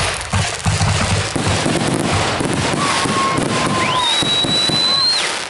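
Consumer fireworks going off in quick succession: dense crackling with low booms through the first half, then high steady whistles joining it in the second half.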